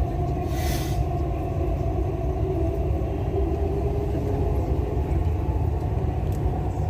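A Dubai Metro train running between stations, heard from inside the carriage: a steady low rumble with a faint steady hum, and a brief hiss about half a second in.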